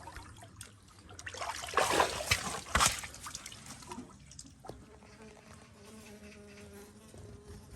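An insect buzzing in a steady, even hum through the second half. It is preceded about two seconds in by a few louder bursts of noise.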